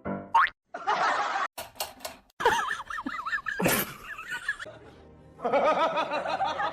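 People laughing and snickering over background music, in short segments that start and stop abruptly.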